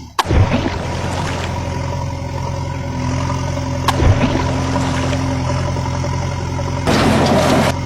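Truck engine sound running as a steady low drone, with a few sharp knocks near the start and around four seconds in, and a short burst of rushing noise about seven seconds in.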